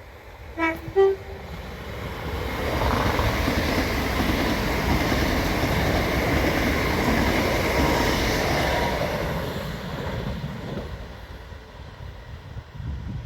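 Train horn sounding two short blasts about a second in, then the train passing by with a steady rumble of wheels on rail that builds and fades away.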